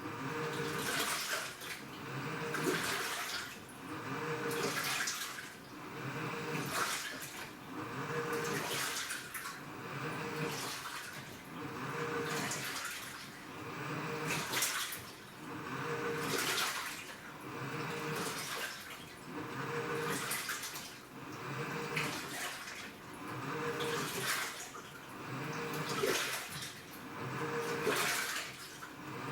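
Washing machine in its wash cycle: water sloshing as the drum turns back and forth, in a regular surge about every two seconds, with a motor hum that pulses with each stroke.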